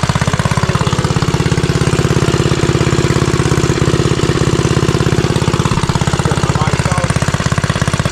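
Motovox mini bike's small engine running at idle with a fast, even train of firing pulses. A higher hum rides on top from about a second in until nearly six seconds. The owner puts its earlier stutter down to stale gas in the carburetor.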